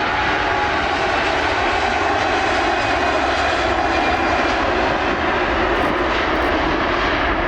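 Airliner engines, loud and steady, with a dense rushing noise and no breaks.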